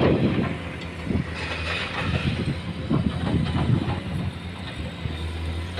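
Heavy diesel machinery running steadily with a low hum, with irregular clattering and knocking over it.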